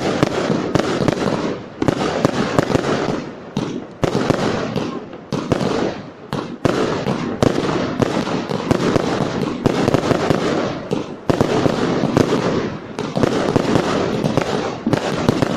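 Fireworks display firing continuously: a dense, rapid string of sharp bangs and crackles, several a second, with no pause.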